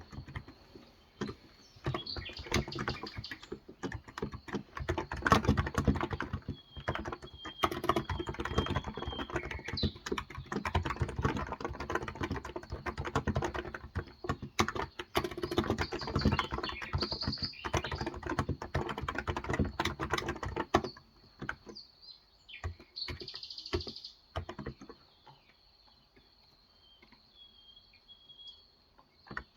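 Typing on a Cox Endeavour electro-capacitive 35 g tenkeyless keyboard: fast, continuous keystrokes that thin out to a few isolated presses after about 20 seconds. Birds chirp faintly in the background a few times.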